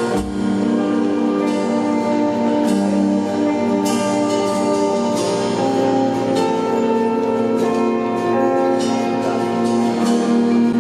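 Worship band playing instrumentally with no singing: long held chords that change every few seconds, with occasional strummed guitar strokes.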